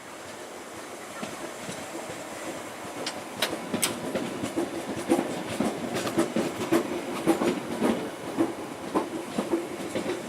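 London Underground 1960 Tube Stock train running on the track, its wheels clicking over rail joints. The sound grows louder about two to three seconds in, then carries on as a steady run of clicks and rumble.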